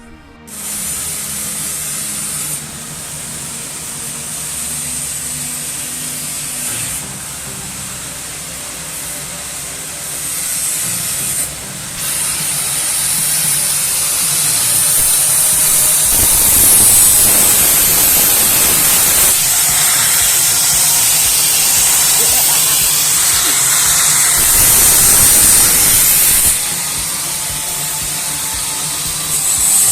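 Loud, steady hiss of blizzard wind and blowing snow, with the level stepping up and down several times.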